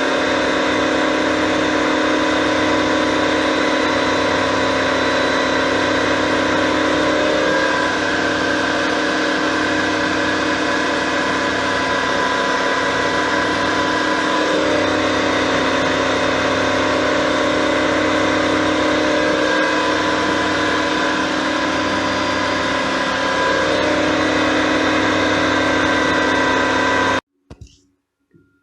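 Kunzmann WF7/3 CNC milling machine running at a steady speed, a loud whine made of several steady tones, which cuts off suddenly about a second before the end.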